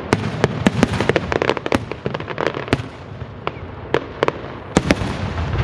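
Aerial fireworks going off: a rapid run of sharp cracks and pops over a continuous rumble, thinning out in the middle, with another cluster of loud cracks near the end.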